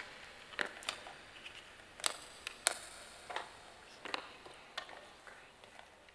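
A dozen or so short, sharp clicks and taps at irregular intervals, over a faint hiss.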